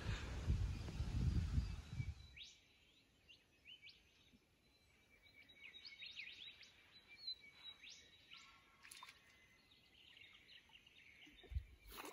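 A low rumbling noise for about the first two seconds, then several birds chirping and calling with quick rising and falling notes.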